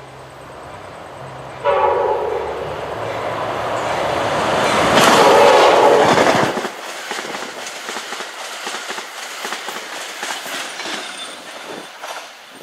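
Diesel-hauled passenger train passing close by: its horn sounds sharply about 1.7 s in, and the locomotive's noise builds to a peak a few seconds later. The engine drone then cuts away abruptly, and the clickety-clack of the passing cars' wheels continues.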